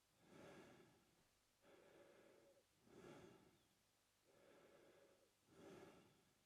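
A man breathing slowly through his mouth: a short, louder breath about every two and a half seconds, three in all, each followed by a longer, softer one. The breathing is quiet.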